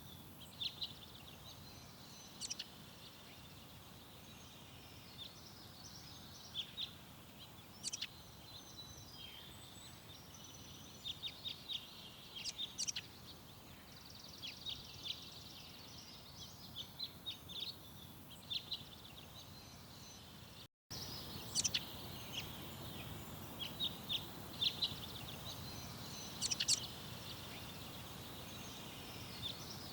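Garden songbirds calling and chirping in short, sharp notes, scattered irregularly and sometimes in quick runs, over a steady outdoor background hiss. The sound cuts out completely for an instant about two-thirds of the way through.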